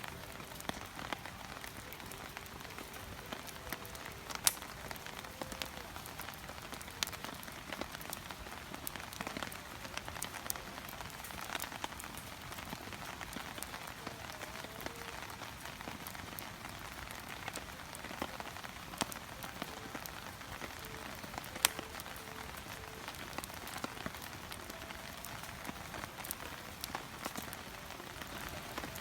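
Wood campfire in a Coleman Fire Disk, crackling steadily with many small snaps, plus two louder pops: one about four seconds in and one about two-thirds of the way through.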